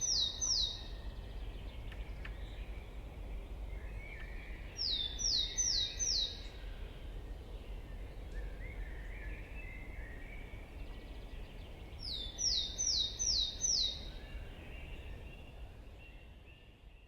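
A songbird repeats a short phrase of four or five quick, high, downward-sliding notes about every six to seven seconds, with faint chirps from other birds over a steady low wind rumble. The whole soundscape fades out near the end.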